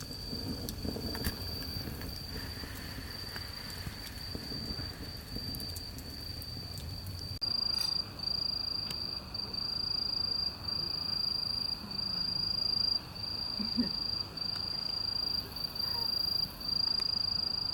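Crickets trilling in a steady, high, continuous chorus, louder from about seven seconds in. A low rumble with a few faint crackles sits under them in the first half.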